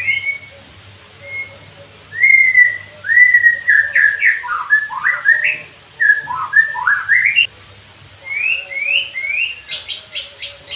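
White-rumped shama singing: a run of clear whistled notes, some held level and others sliding sharply up or down. Near the end comes a quick series of short, sharp notes, about four a second.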